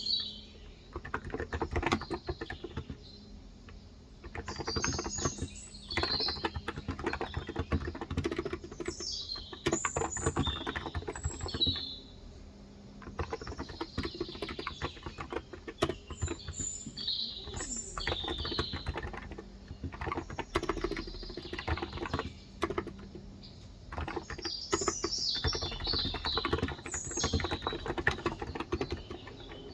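Typing on a Cox Endeavour non-contact (capacitive) tenkeyless keyboard with light 35 g switches: quick runs of keystrokes in bursts broken by short pauses. Birds chirp in the background.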